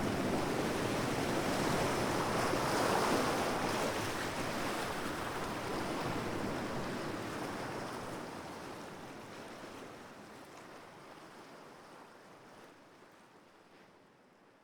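Ocean waves washing in as surf, swelling about three seconds in and then fading out steadily toward the end.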